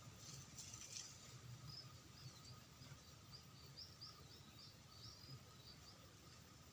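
Faint, rapid series of about a dozen short, high chirps from a small bird, starting about two seconds in and stopping near the end, over a quiet outdoor background.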